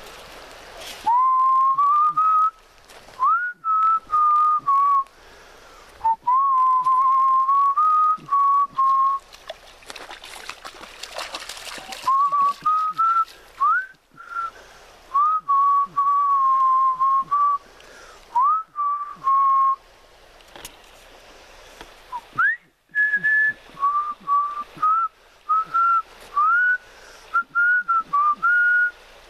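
A person whistling a tune by mouth, badly, in short phrases of sliding notes with brief pauses between them.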